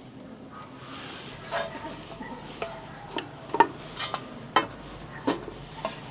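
Metal utensils clinking against cookware: a run of sharp, irregular knocks, each with a brief ring.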